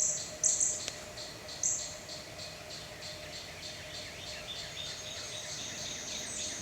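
Birds chirping: a few loud high chirps in the first two seconds, then a steady run of short repeated notes, about three a second.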